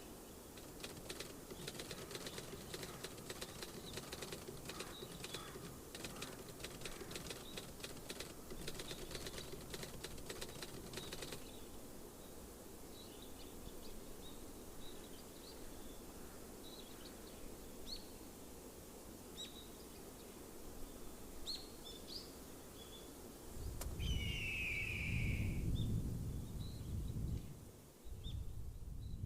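Rapid crackling clicks that stop abruptly about eleven seconds in, then scattered short bird chirps, with a brief trilled call and a low rumble near the end.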